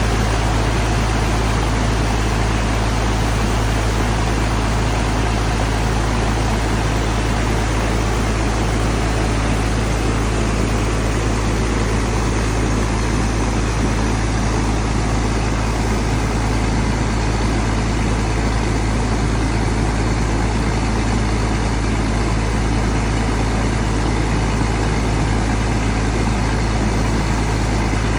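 Engine-driven long-tail axial-flow water pump ('Phaya Nak' pump pipe) running steadily under load, with a deep even engine drone and water rushing from the outlet.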